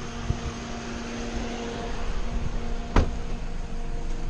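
A steady mechanical hum with a low rumble and a faint steady tone, which stops about three seconds in with one sharp click.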